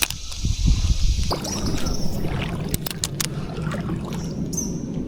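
Water lapping and trickling against a canoe hull, with wind buffeting the microphone for about the first second and a few light knocks about three seconds in.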